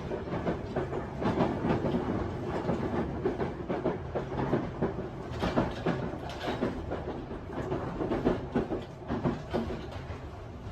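Running noise inside a Tobu 50090-series electric train car: a steady rumble with dense, irregular rattling and wheel clatter over rail joints as it runs into its terminus.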